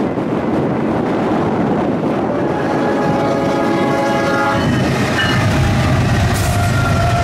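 A diesel freight locomotive sounds its multi-note air horn about two seconds in and holds it for about two seconds. Then the locomotive's low engine rumble builds as the train comes by, with rail noise throughout. Near the end a single tone slides downward in pitch.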